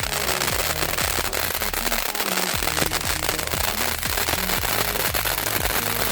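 Crackling stars of a Nico Feuerwerk Sternschnuppe fireworks battery, a dense, continuous crackle, over background music with a steady beat.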